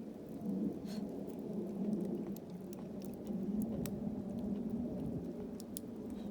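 Campfire burning: a steady low rush of flame with scattered sharp crackles and pops.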